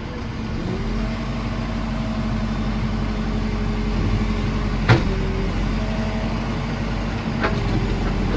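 JCB 4CX backhoe loader's diesel engine running and revving up about a second in as the machine starts work, with two sharp metallic clanks, the louder about five seconds in.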